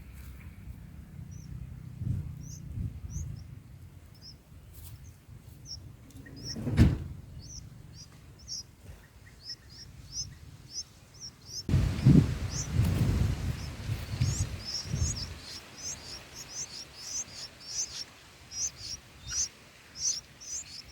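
Bulbul nestlings giving short, high, thin begging cheeps over and over, coming faster and louder in the second half. A sharp knock about seven seconds in and low rumbling thuds around twelve seconds, the loudest sounds, are the nest or branch being jostled.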